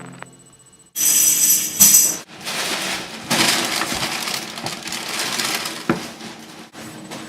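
A sudden jingling shake about a second in, like small bells or a tambourine, followed by several seconds of rustling, clattering noise with a sharp click near the end. Closing notes of music fade out at the very start.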